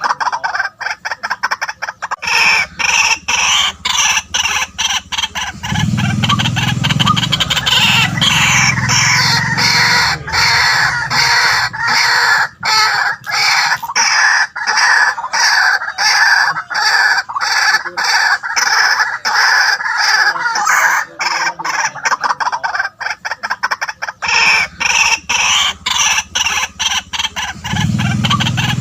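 White-breasted waterhens calling: loud calls repeated rapidly, without a break.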